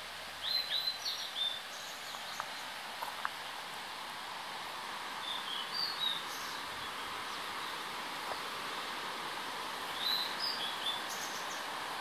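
A small songbird sings three brief phrases of short, high chirping notes, about five seconds apart, over a steady rushing background noise.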